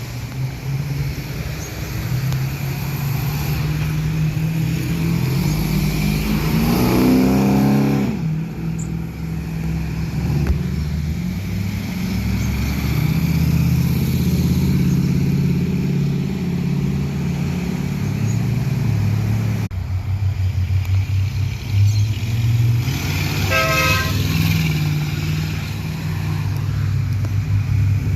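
Classic cars' engines running with a deep, steady rumble. One revs up, rising in pitch about a quarter of the way in, and a car horn sounds briefly about two-thirds of the way in.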